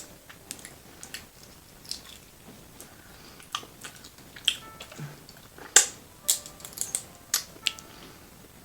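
Close-miked eating of a saucy seafood boil: irregular sharp wet clicks and smacks of chewing, the loudest nearly six seconds in.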